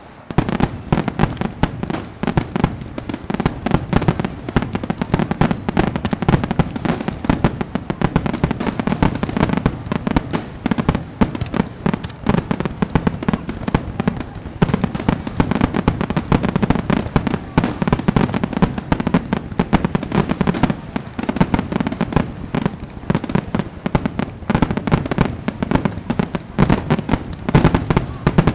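Fireworks going off in a dense, continuous barrage of bangs and crackles, with a deep rolling rumble beneath the rapid sharp reports.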